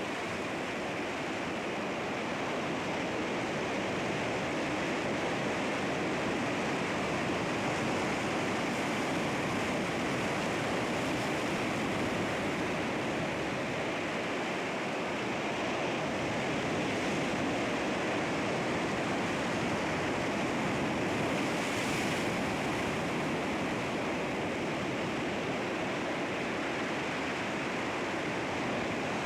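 Sea waves breaking on rocks and washing back, a steady wash of surf that swells and eases gently.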